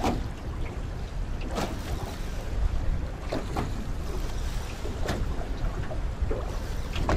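Strong wind buffeting the microphone with a steady low rumble, and waves slapping against the hull of a small fishing boat every second or two.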